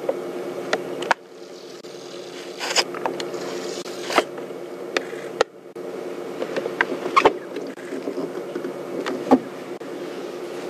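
Safari vehicle's engine idling with a steady low hum, broken by scattered sharp clicks. The hum cuts out about a second in and again briefly near the middle.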